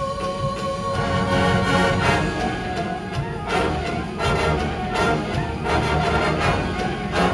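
Winds ensemble of brass and percussion playing a show piece. Held brass chords give way about two seconds in to a run of sharp percussion hits under the band.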